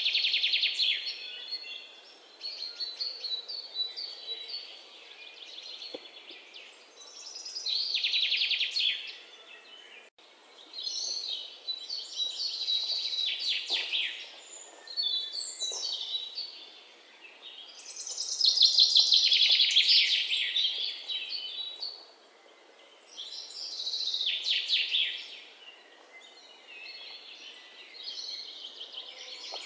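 Songbirds singing: high, fast trilled song phrases of a second or two each, repeating every few seconds, with softer chirps in between.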